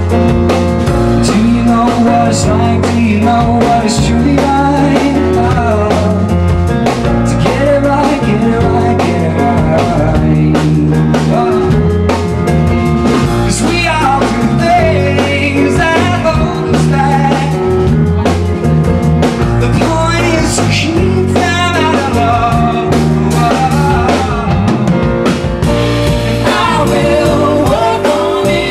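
Live band playing a song: drum kit keeping a steady beat under piano, with a singing voice.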